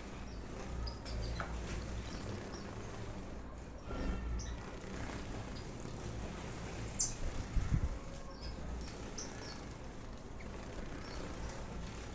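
Ornamental aviary birds giving short, scattered high chirps over a steady low rumble, with a brief louder thump about two-thirds of the way through.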